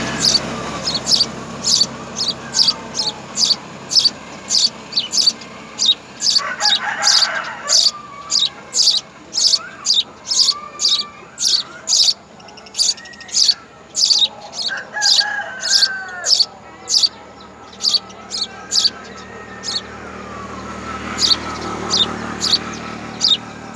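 House sparrow chirping over and over, short high chirps at about two a second. Three longer, lower calls sound behind it, about a quarter, two thirds and nine tenths of the way through.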